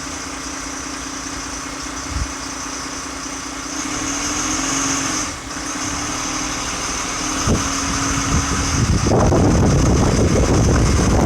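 Fire engine's diesel engine running at idle with a steady hum. About nine seconds in, a louder, rougher noise takes over.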